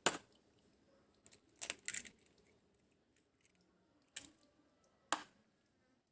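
Eggs being cracked on the edge of a bowl: a few short, sharp taps and cracks, spaced out with quiet between them.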